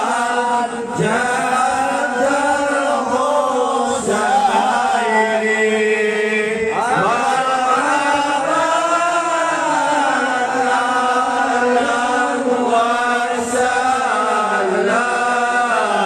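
Voices chanting a continuous melodic line, with long held notes that slide up and down in pitch.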